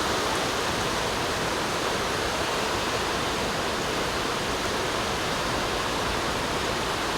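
Heavy downpour: a steady, dense roar of rain with no let-up.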